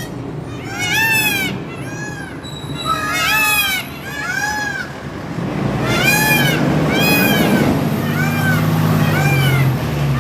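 A group of peafowl calling: many loud, short, wailing cries that rise and fall in pitch, several birds overlapping. A low engine rumble from passing traffic joins underneath from about the middle on.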